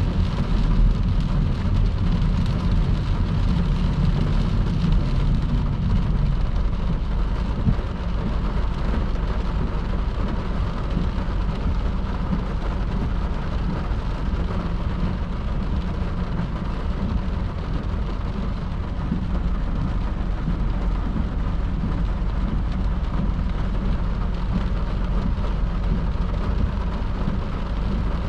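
Car driving on a wet motorway in heavy rain: a steady rush of tyre spray and rain with a deep low rumble, the rumble a little heavier for the first few seconds.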